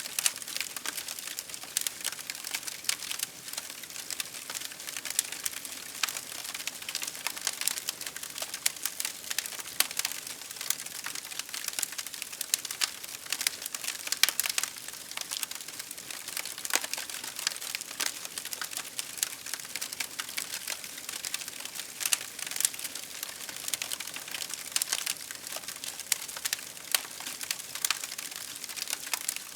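Wood fire crackling steadily, with a dense run of small irregular pops and snaps over a soft hiss.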